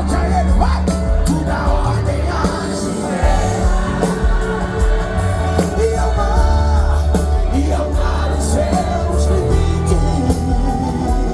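Live gospel band music with singing, over a heavy bass line and drums.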